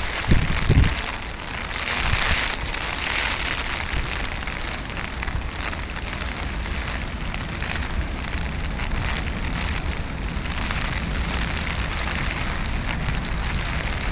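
Steady hiss of heavy typhoon rain and wind, swelling with gusts, with wind buffeting the microphone in low thumps near the start.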